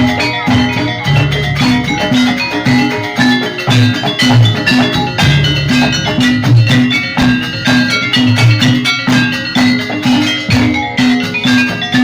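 Javanese gamelan music for a jaranan dance: struck metallophones and hand drums playing a brisk, steadily repeating pattern over a regular low beat.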